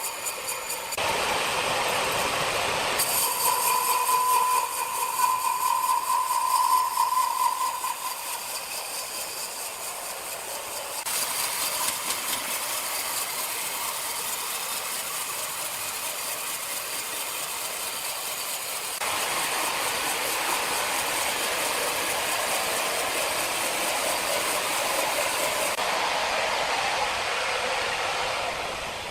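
Sawmill machinery sawing a log: a steady, high-pitched mechanical grinding with a whine from about 3 to 8 seconds in. The sound changes abruptly several times.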